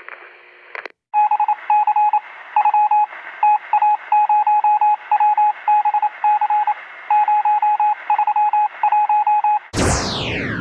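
Morse-code-style radio sound effect: a single beeping tone keyed on and off in short and long beeps over a faint hiss of static. Near the end it is cut off by a loud falling whoosh, several tones sweeping steeply down in pitch.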